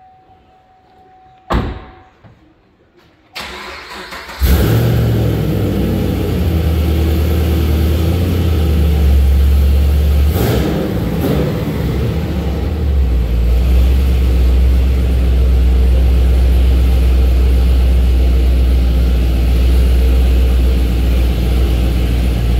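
A car door shuts with a thump about a second and a half in. The 2013 Chevrolet Camaro SS's 6.2-litre V8 then cranks and catches at about four and a half seconds, starting with a loud flare through its performance exhaust. It settles into a deep, steady idle, with one short blip of the throttle around the middle.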